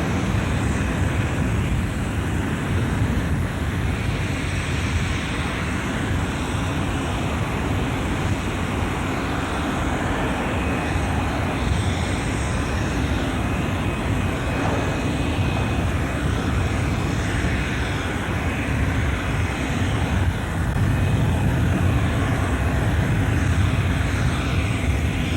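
Jet airliner engines running: a steady, dense rumble with a faint high whine partway through, growing a little louder near the end.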